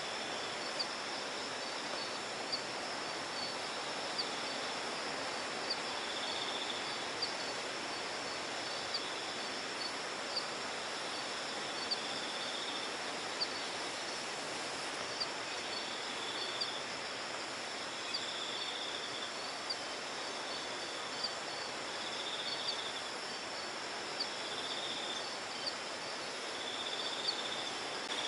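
Night insects calling in the forest: short sharp chirps repeating about every one and a half seconds, with buzzing cricket trills about a second long in between, over a steady hiss.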